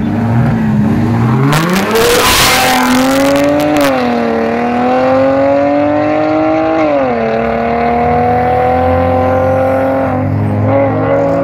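Two cars launching from a standing start in a street drag race, one with a swapped-in LS V8. The engines rev up hard as they pull away, and the pitch climbs through each gear and drops at upshifts about four and seven seconds in.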